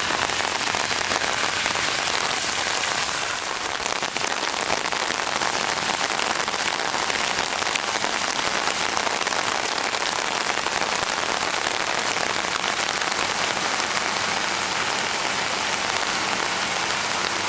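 Heavy rain falling steadily on pavement and floodwater, an even, unbroken hiss.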